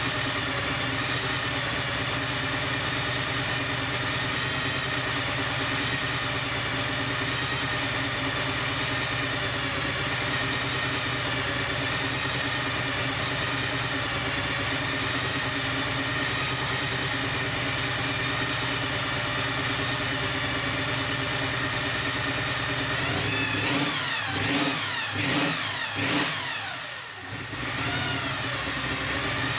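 Supercharged 350 small-block Chevrolet V8 idling steadily, then blipped a few times in quick succession near the end before settling back to idle.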